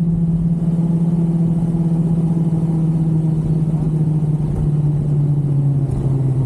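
Yamaha R1 sportbike's inline-four engine running steadily at a cruise, its note dropping in pitch over the second half as the bike slows.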